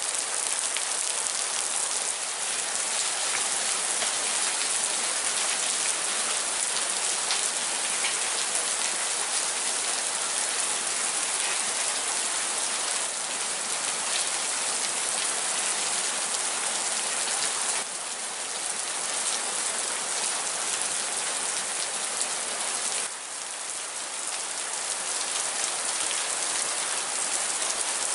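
Heavy rain pouring down and splashing on wet concrete, a dense steady hiss of drops. Its level steps down slightly twice, once about two-thirds of the way through and again a few seconds later.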